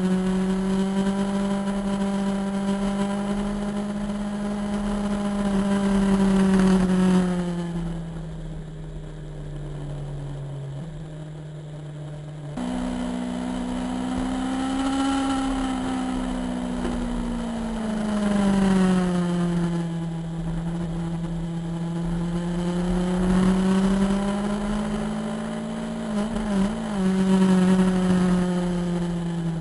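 Motorcycle engine under way, its note rising and falling with the throttle. It drops off as the throttle closes about seven seconds in and picks back up sharply around twelve seconds.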